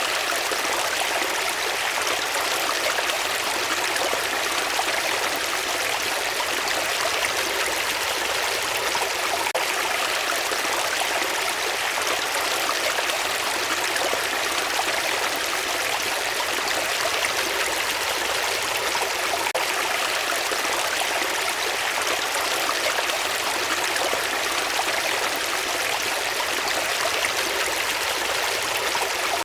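Steady rush of flowing water, like a stream, with no pauses or changes.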